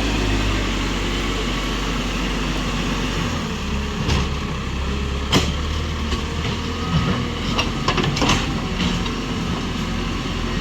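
Tractor engine running steadily, with a few sharp knocks about halfway through.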